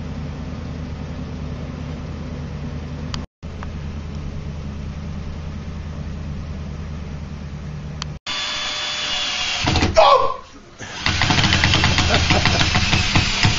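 A vehicle engine idling steadily, with a brief dropout about three seconds in. About eight seconds in the sound cuts to something louder and busier, ending in music with a steady drum beat.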